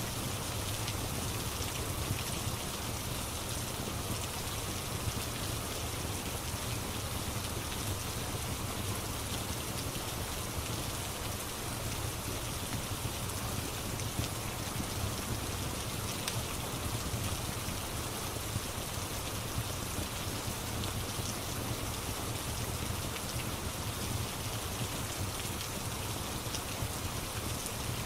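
Steady rain falling, an even hiss, with a few faint sharp ticks.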